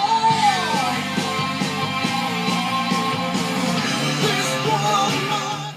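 Rock music with guitars playing, fading out at the very end.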